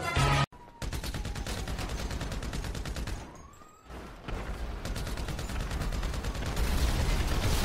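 Rapid, continuous gunfire, dense shots in quick succession like automatic weapons, in two long stretches with a brief lull about three and a half seconds in, louder near the end.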